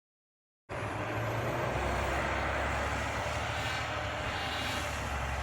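Garbage truck engine running steadily with a deep low rumble, cutting in suddenly under a second in.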